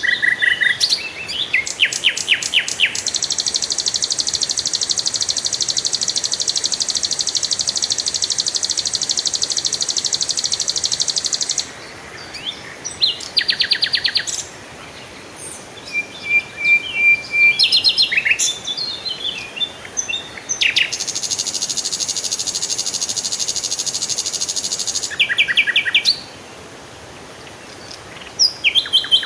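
Songbirds chirping and trilling: short rapid trills and chirps, with two long, steady, high buzzing trills lasting several seconds each.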